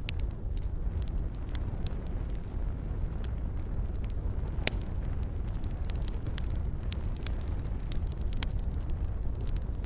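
Fireplace fire crackling over a steady low rumble of flames, with irregular small pops and one sharp, loud pop about halfway through.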